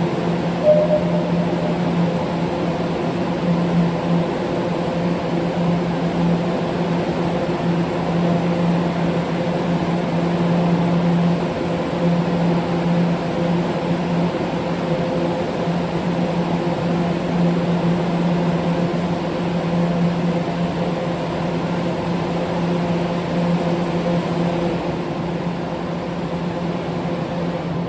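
A subway train standing at the platform, its air-conditioning and on-board equipment giving a steady hum with a low tone and fainter higher tones above it.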